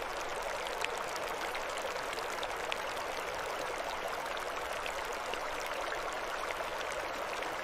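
Steady rushing and babbling of a flowing mountain stream, an even hiss with faint small splashes and drips through it.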